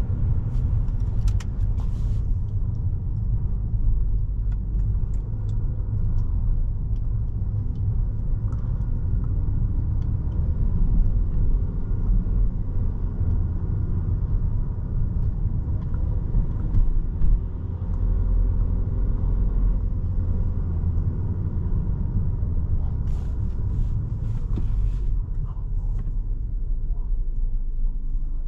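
Inside the cabin of a 2017 Volkswagen Jetta SE being driven: steady low road and tyre rumble, with the engine's note faintly rising and falling in pitch partway through. A few short clicks sound about a second in and again near the end.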